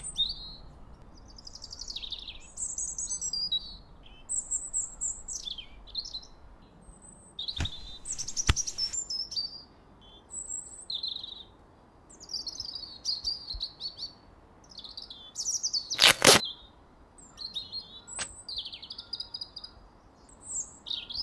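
Small birds chirping and singing in short, quick phrases throughout, with a few sharp clicks in between, the loudest about sixteen seconds in.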